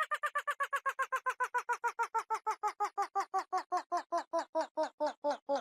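A run of short, nasal, quack-like tones that repeats quickly, then gradually slows down while the pitch sinks lower and lower.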